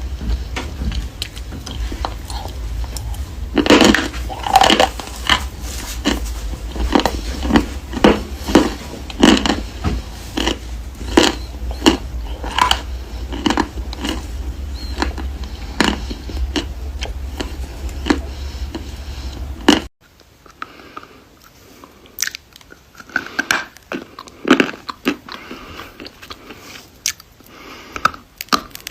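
A person biting and chewing crunchy pieces of chalk and clay close to the microphone, with repeated sharp crunches about one to two a second. About two-thirds of the way through, the background hum stops suddenly and the crunches carry on, sparser and more separate.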